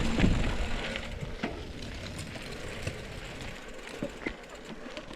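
A small-wheeled mini bicycle rolling down a dirt mountain-bike trail: tyre and rattle noise with scattered clicks and knocks, loudest in the first second or so and then easing off.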